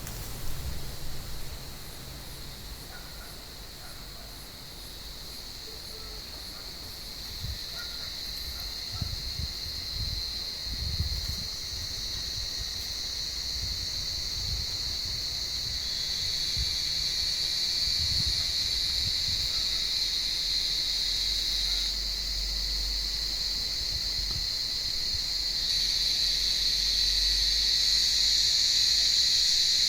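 Cicadas buzzing in a steady, high-pitched chorus that grows louder, stepping up about halfway through and again near the end.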